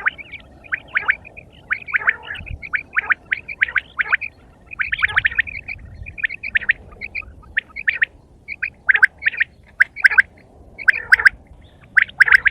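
Quail calling over and over, a rapid series of short chirping calls, several a second at times, with brief gaps.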